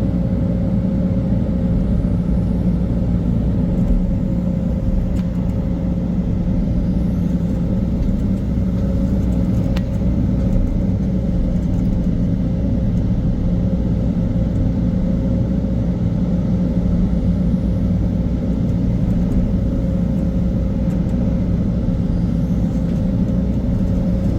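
Diesel engine of heavy machinery running steadily at an even speed, with a thin steady whine above the engine hum.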